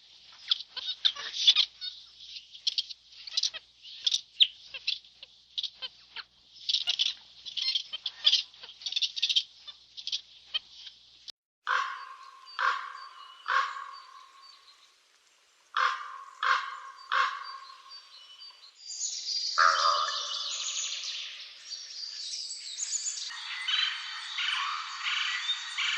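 Birdsong and bird calls, changing partway through: quick high chirping, then a few separate lower honking calls, then dense high chattering.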